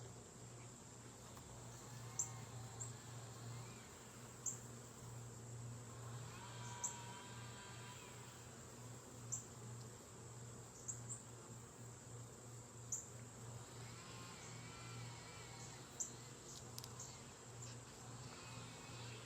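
Honeybees buzzing around an open hive: a steady low hum, with a few louder passes as bees fly close, and faint sharp clicks every few seconds.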